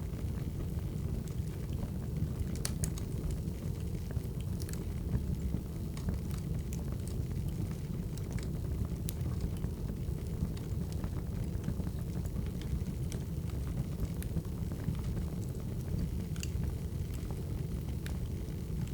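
Wood fire burning, with a steady low rumble and irregular sharp crackles and pops of the logs.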